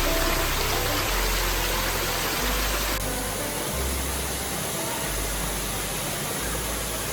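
Steady rush of a waterfall, with slow low bass notes of background music underneath. The rush changes in tone abruptly about three seconds in.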